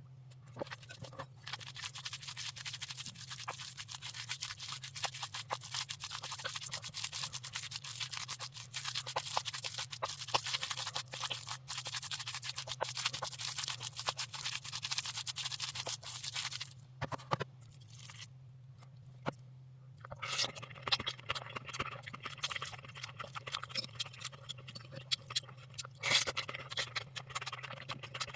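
Close-miked scraping and crackling of food being stirred in a bowl, dense and continuous, stopping for a few seconds past the middle and then starting again. A steady low hum runs underneath.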